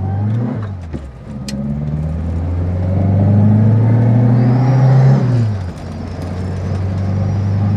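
Reliant Kitten's 848cc all-alloy four-cylinder engine pulling from inside the cabin. Its note climbs steadily, drops sharply about half a second in and again about five seconds in, then holds steady.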